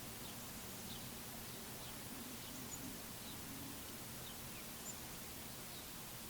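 Faint, scattered high chirps from small songbirds, short falling notes every second or so, over a steady outdoor hiss.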